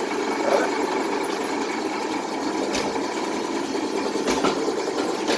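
A motor running steadily, with two short knocks, one a little under three seconds in and one after about four seconds.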